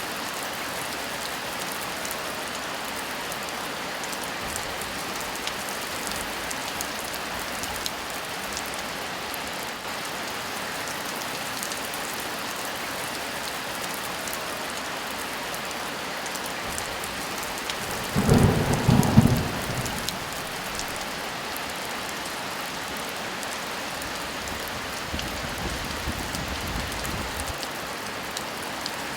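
Steady heavy rain with a thunderstorm: a loud clap of thunder rumbles about two-thirds of the way through, and a fainter low rumble follows near the end.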